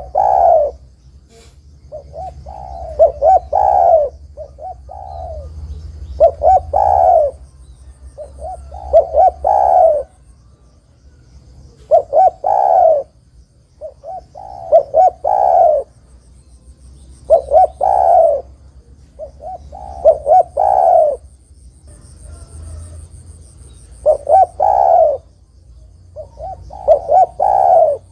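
Spotted dove (terkukur) cooing repeatedly. Each phrase is a few short coos ending in a longer, louder note, and the phrases come about every two to three seconds.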